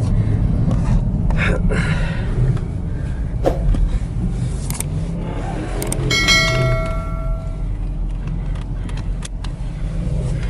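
Car engines rumbling steadily, with scattered clicks. About six seconds in comes a brief steady high tone lasting about a second and a half.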